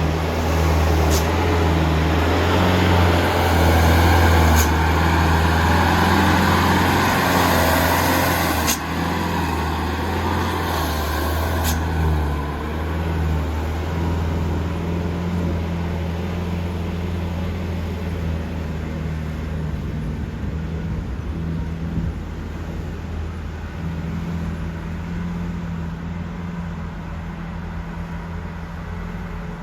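Engine of a heavily overloaded Mitsubishi Canter truck running steadily under load. It is loudest for about the first nine seconds, with a rushing noise over the engine, then settles lower. A few sharp clicks come in the first twelve seconds.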